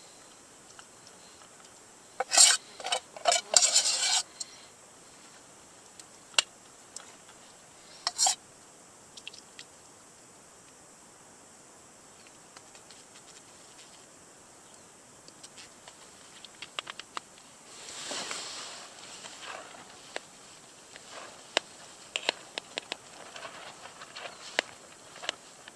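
Metal utensils clinking against camp cookware: a quick run of clinks a couple of seconds in, two single clinks, then a quiet stretch, and soft rustling with light taps near the end.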